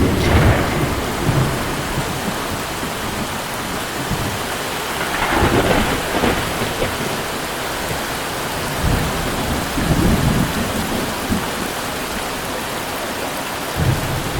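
Heavy typhoon rain pouring steadily, with low rumbles of thunder swelling up several times.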